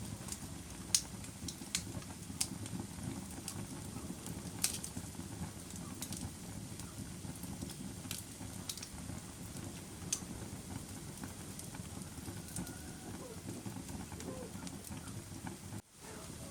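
Wood fire burning in a fireplace: a steady low rumble of flames with irregular sharp crackles and pops. The sound drops out for a moment near the end.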